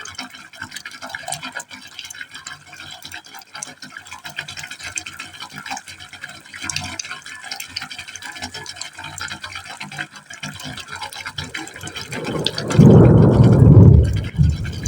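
Water falling into a pipe hole, splashing and gurgling unevenly with many small drips. Near the end it turns into a much louder, deeper rush for a second or two.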